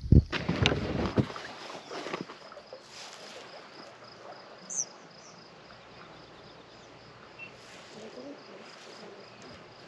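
Kayak paddle strokes splashing and dripping in the water, loudest in the first second and a half, then a couple of softer strokes. Crickets chirp steadily in an even, high pulse throughout.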